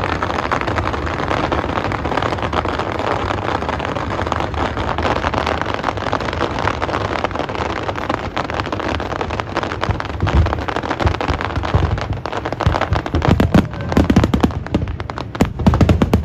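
Aerial fireworks display: a dense, loud crackle like heavy rain from many bursting shells. From about ten seconds in, deep booms break through, coming faster toward the end.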